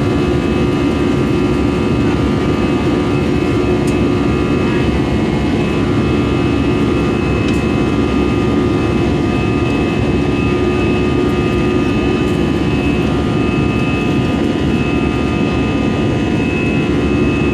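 Cabin noise of an Airbus A320-214's CFM56-5B jet engines, heard from inside the passenger cabin: a loud, steady rush with several steady whining tones held throughout.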